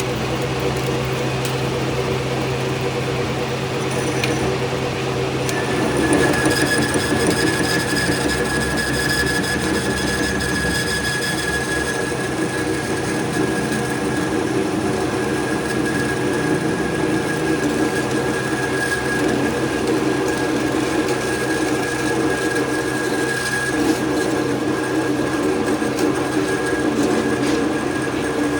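A workshop machine running steadily with a constant hum, joined about six seconds in by a high steady whine that holds to the end.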